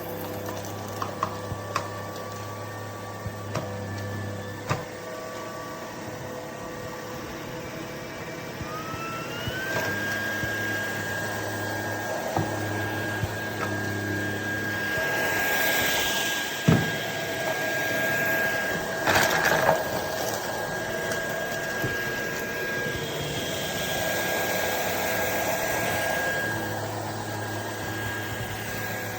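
LEVOIT LVAC-200 cordless stick vacuum running with a steady motor whine. About nine seconds in, the whine rises in pitch and holds at the higher note. Scattered clicks and knocks sound over it.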